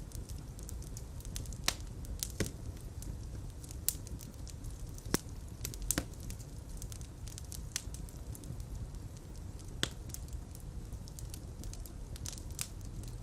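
A fireplace fire burning, with a steady low rumble of flames under irregular crackles and a handful of louder sharp pops.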